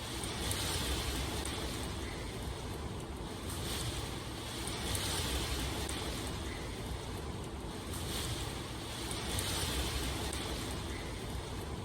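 Steady rushing water noise with a low rumble underneath, swelling and easing every two seconds or so.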